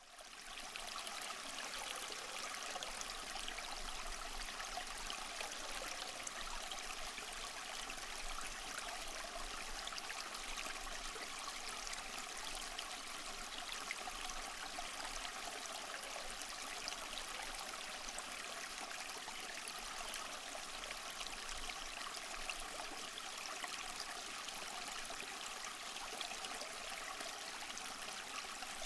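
Small waterfall: water falling and splashing in a steady, even rush with a trickling edge, fading in at the very start.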